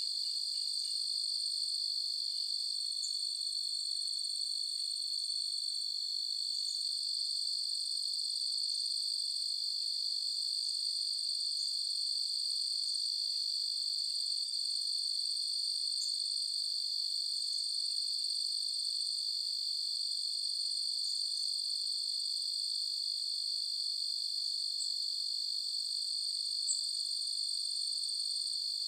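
Night chorus of crickets trilling in a steady, unbroken high drone, with scattered brief higher chirps over it.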